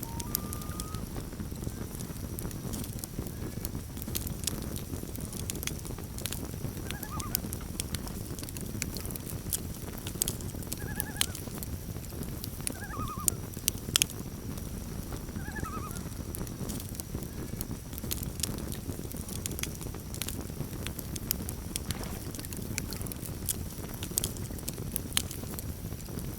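Campfire crackling and popping over a low steady rumble, while a common loon calls several times in short wavering phrases during the first half.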